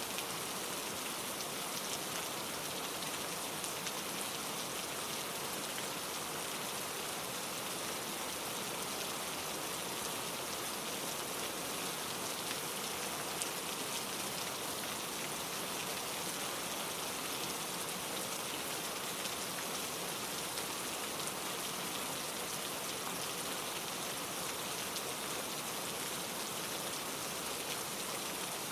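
Steady rain falling, a constant even hiss with fine pattering of drops throughout.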